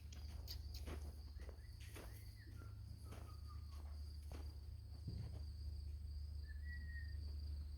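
Faint outdoor ambience: a steady high insect drone over a low hum, with scattered soft footsteps and a few short chirps, one near the end.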